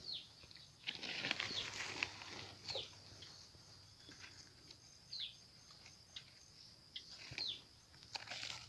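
A bird repeating a short, falling whistled note about five times, a second or two apart. Between the calls come rustling and scraping as a hand handles a wire trap among wet leaves and soil, loudest in the first couple of seconds.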